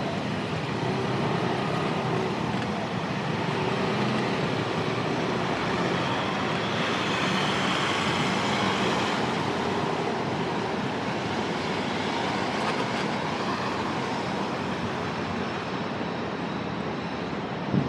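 Steady ride noise from a moving motorcycle: a continuous rush of wind and road noise over a low engine hum, swelling slightly about halfway through.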